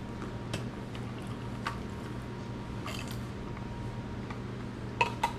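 Eating sounds from chicken flautas (fried rolled tacos): a few short, scattered crunches and wet mouth clicks, the sharpest pair near the end, over a steady low hum.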